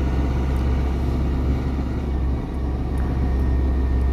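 Steady low drone of a GAZon Next truck's diesel engine, with road noise, as heard from inside the cab while the truck moves slowly.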